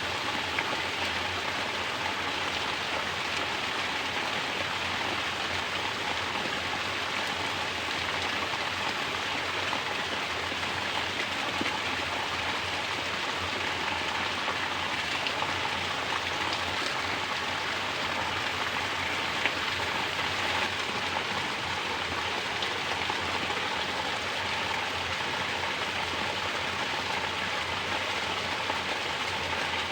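Mountain spring water pouring down in a natural shower and splashing steadily, a constant even rush.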